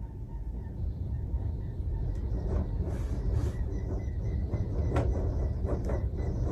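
Strong wind gusting against the microphone as a heavy low rumble, with a few sharp knocks and rattles partway through.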